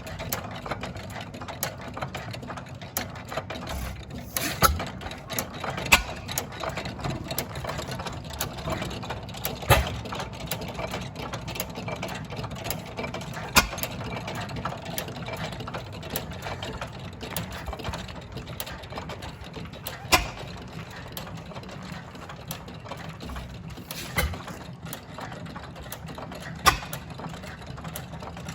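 Three International Harvester Famous single-cylinder hit-and-miss engines running together: a steady clatter of valve gear and moving parts, with a loud sharp bang every few seconds at irregular spacing as an engine fires. The irregular firing shows the governors holding the engines' speed, with firing only when it drops.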